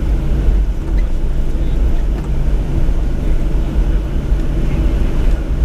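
Steady low rumble inside a Boeing 737's cabin as it taxis to the gate, the engines running at idle under an even hum of airflow.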